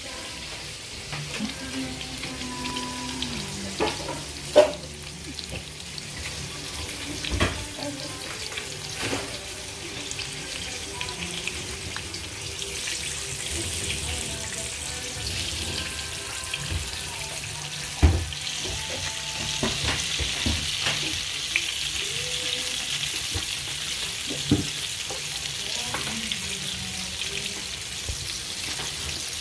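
Floured chicken pieces frying in a pan of hot oil, a steady sizzle that grows louder about halfway through. Several sharp knocks sound over it.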